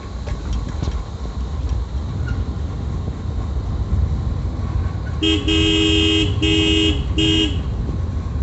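Vehicle horn honking three times, a long blast then two shorter ones, starting about five seconds in, over a steady low rumble of riding.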